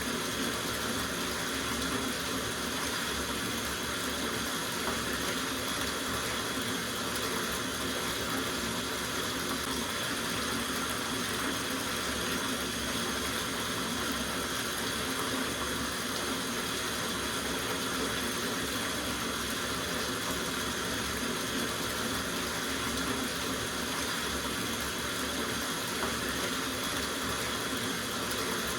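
Tap water running steadily into a soaking bathtub, a constant splashing rush.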